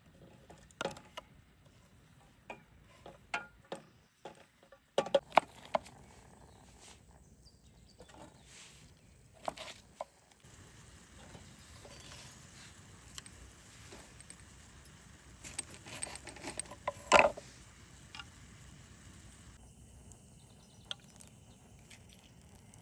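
Scattered light clicks, taps and knocks over a faint steady background, the loudest a sharp knock about 17 seconds in.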